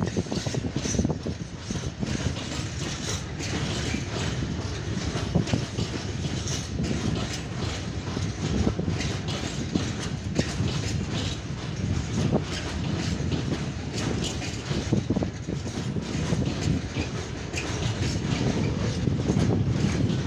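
Freight train of hopper wagons rolling past: a steady rumble of wheels on rail, with repeated clacks as the wheels cross rail joints and points.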